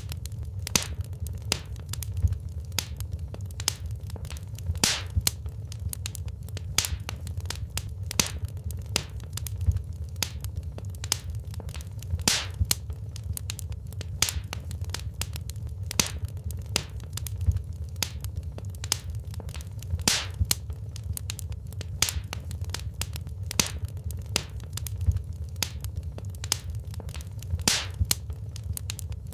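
Wood fire burning in a fireplace: irregular sharp crackles and pops from the burning logs over a low, steady rumble of the flames.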